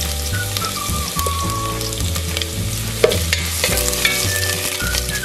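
Garlic, onion and ginger frying in coconut oil in an enamel pot, sizzling steadily with small crackles. A wooden spatula stirs the pot.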